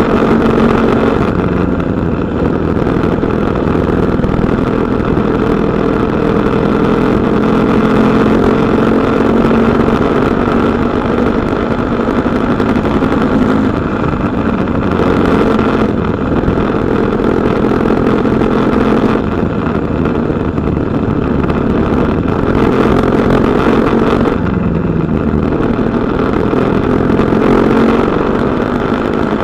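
KTM Duke 250's single-cylinder engine running loud and steady under way. Its pitch shifts up and down several times as the throttle is opened and closed.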